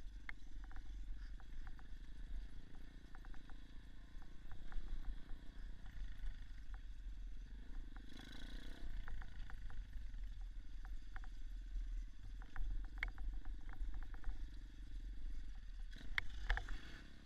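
Low, steady rumble of a small dirt-bike engine, with scattered clicks and knocks and a brief louder rush of noise about halfway through.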